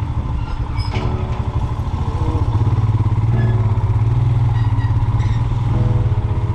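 Royal Enfield Himalayan's single-cylinder engine running steadily under way, a loud, fast low pulse.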